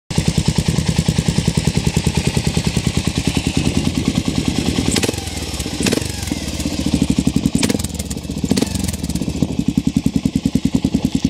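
Kawasaki KL600R's single-cylinder four-stroke engine running at idle through a SuperTrapp muffler fitted with a regular disc and end ring, each firing pulse distinct. The pulses soften for a few seconds in the middle, with a few sharp clicks, then come back strong.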